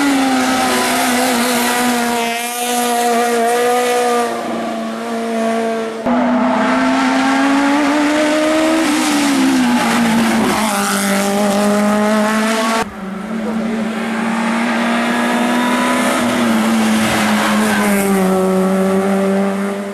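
Race car engines at high revs, each holding a steady high note that rises and dips a little in pitch. The sound cuts abruptly twice, about six and thirteen seconds in.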